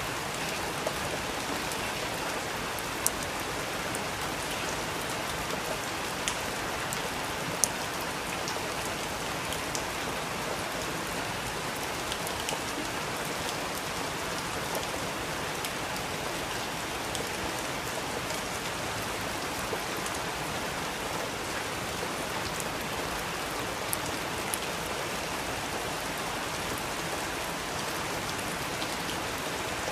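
Steady rain falling, with scattered sharper drops ticking on a surface now and then.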